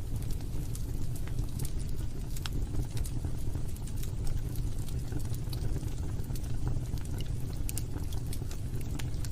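Logs burning in a fireplace: a steady low rumble of the fire with scattered sharp crackles and pops at irregular moments.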